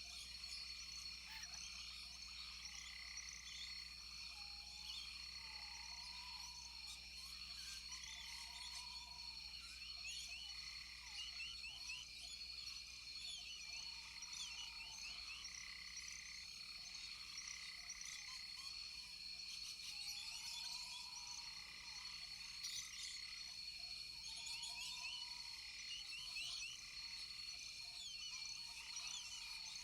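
Rainforest animal chorus: frogs calling over steady high-pitched insect trilling, full of short chirps, with one lower arched call repeating every few seconds.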